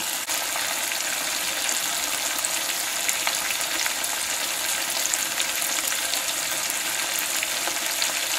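Pike livers frying in hot oil in a skillet: a steady sizzle with frequent small sharp pops and crackles, the perch roe in the pan spitting in the oil.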